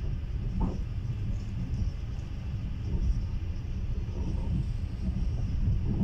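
Steady low rumble of a moving passenger train heard from inside the carriage as it runs along the track.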